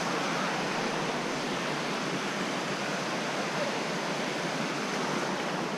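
Steady rush of flowing water from a waterfall or stream, an even hiss with no pauses.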